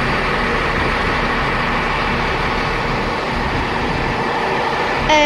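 A stationary train idling at the platform, a steady engine hum. At the very end a short, clear pitched tone sounds.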